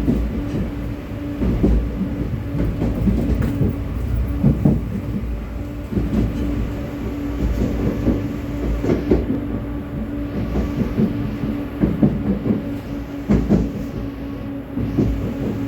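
Vityaz-M (71-931M) low-floor tram running along the track: a steady hum under a low rumble, with irregular knocks and clatter from the wheels on the rails.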